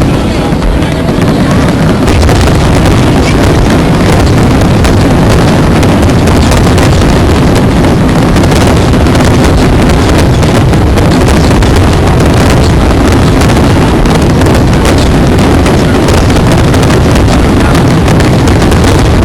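Fireworks finale barrage: many shell bursts going off in quick succession, overlapping into a continuous loud din with sharp cracks scattered throughout.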